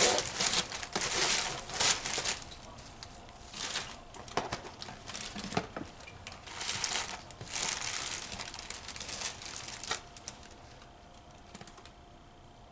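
Takeout food wrapping crinkling and rustling in irregular bursts, dying down over the last couple of seconds.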